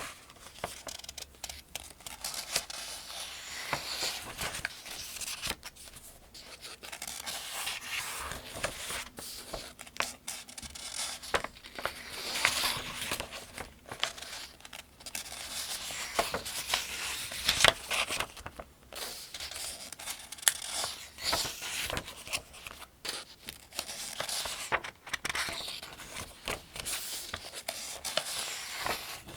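Pages of the 2025 Farmers' Almanac being turned one after another: paper rustling and crinkling, with short sharp flicks as each page is turned, at a steady pace.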